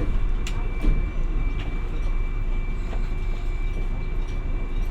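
Hiroden 700-series tram running along the line: a steady low rumble of wheels on rail, a few separate clicks from the track, and a faint steady high tone.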